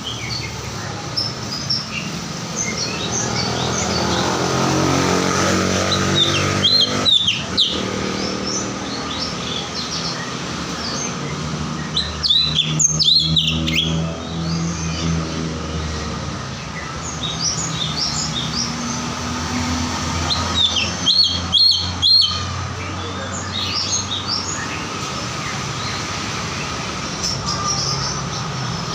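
A cucak cungkok, a caged songbird, singing a run of short, sharp chirps and whistled notes, with louder bursts of song several times, over a low steady hum.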